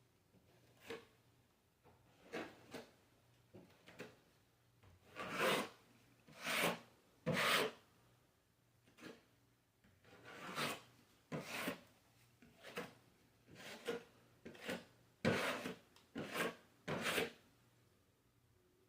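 A hand tool rubbing over a drywall repair in irregular rasping strokes, some short and some drawn out, the loudest few in the middle and again later, stopping a couple of seconds before the end.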